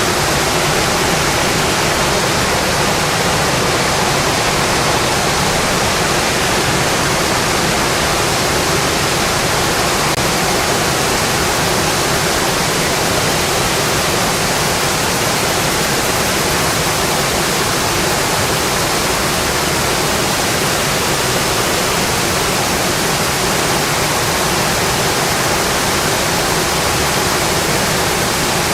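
Steady, heavy rain drumming on a metal roof: a dense, even hiss with no change in level.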